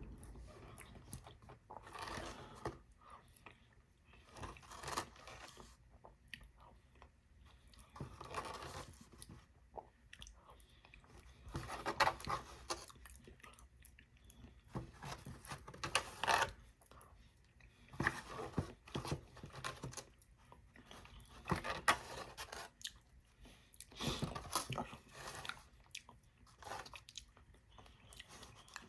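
Close-up chewing and crunching of fried chicken chunks, in irregular bursts of bites and chews separated by short pauses.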